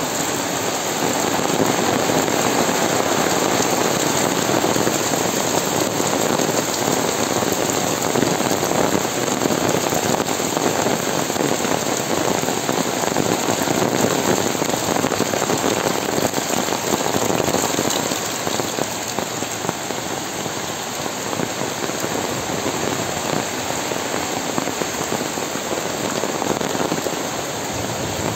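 Heavy monsoon rain falling steadily on foliage and a wet paved lane, a dense even patter that eases a little about two-thirds of the way in.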